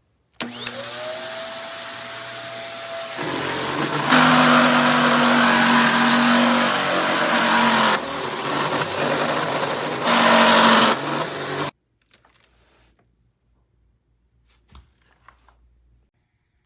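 Kenmore DU1275 bagless upright vacuum cleaner switching on, its motor whine rising as it spins up, then running loud and steady. It grows louder in two stretches, about four seconds in and again around ten seconds, and stops abruptly about twelve seconds in. A few faint clicks follow.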